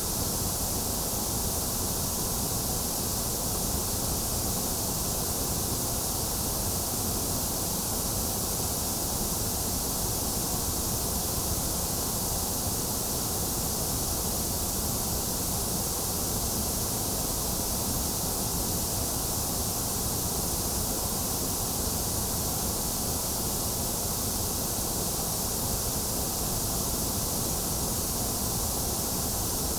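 Steady white noise: a constant, unchanging hiss, strongest in the high range.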